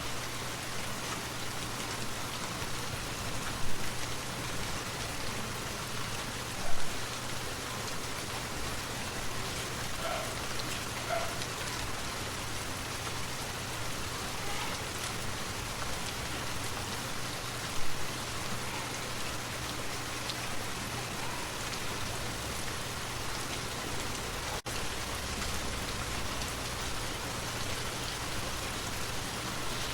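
Steady rain falling, an even hiss, with a few louder splashing drops about 4, 7 and 18 seconds in.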